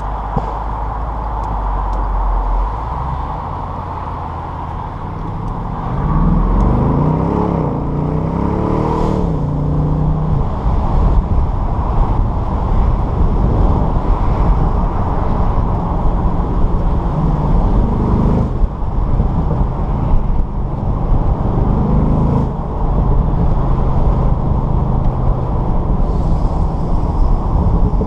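Bentley Continental GTC V8 S's 4.0-litre twin-turbo V8 under way. After a few seconds of low, steady running it revs up in several rising steps through the gears, then runs on at steady revs with short rises now and then.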